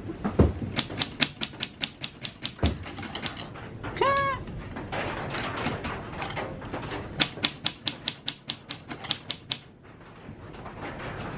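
1950s Olympia Deluxe manual typewriter keys being struck in two quick runs, about four or five sharp clacks a second, as the machine is tried out. Between the runs, about four seconds in, a short pitched meow-like cry.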